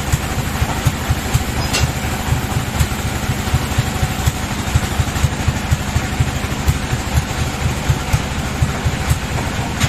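Band sawmill machinery running steadily: a low engine-like drone with a rapid, regular knocking, and a couple of brief sharp clicks.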